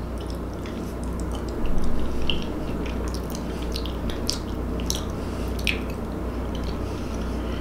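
A person chewing a mouthful of food with small wet mouth clicks, a little louder about two seconds in.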